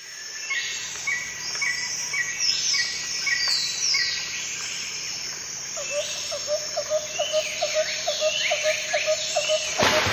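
Several birds chirping and calling together: a repeated short chirp about twice a second and quick falling whistles over it. From about halfway a lower note repeats about three times a second, and right at the end a sudden rush of noise starts.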